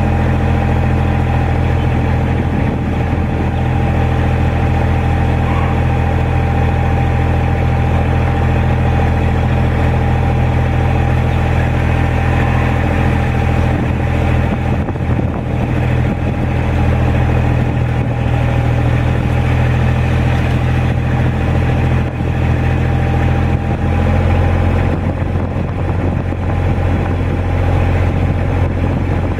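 An engine running steadily, its pitch unchanging throughout.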